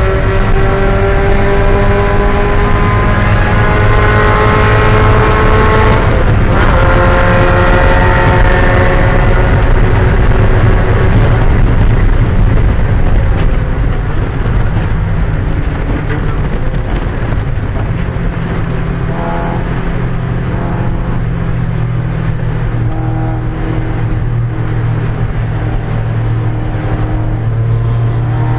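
1995 Mazda Miata's 1.8-litre four-cylinder engine under race load, revving up, dropping sharply about six seconds in as it shifts up, then climbing again. About fourteen seconds in it eases off and runs lower and steadier, then picks up again near the end, over steady road and wind noise.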